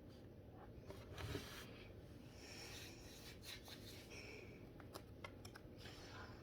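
Faint rubbing of a brush pen tip stroking across paper while coloring, in several short passes, with a few light clicks near the end.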